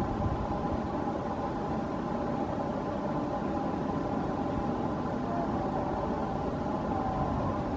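Steady low rumble of a WAP-7 electric locomotive and its express train approaching from far off, with a faint steady hum held at one pitch.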